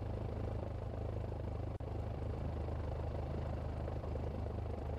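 Cessna 172's piston engine idling, a steady low drone heard from inside the cockpit.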